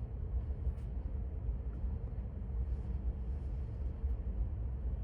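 Steady low rumble of a vehicle engine running, with a faint steady hum above it.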